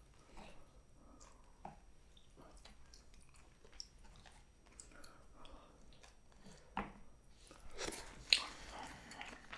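Close-miked eating of spicy cheese jjimdak, Korean braised chicken: soft wet mouth clicks and quiet chewing, a sharp click about seven seconds in, then louder chewing near the end.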